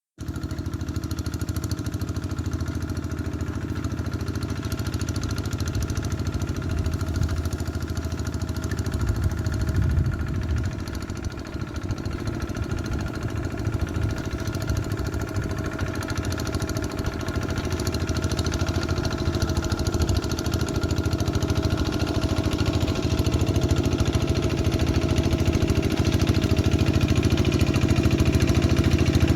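Single-cylinder diesel engine of a two-wheel hand tractor running steadily, dipping a little around the middle and getting louder toward the end.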